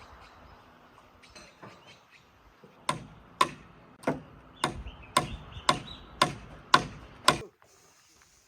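Hammer blows on wood during timber-frame carpentry: a few light taps, then nine sharp, ringing strikes at about two a second that stop suddenly.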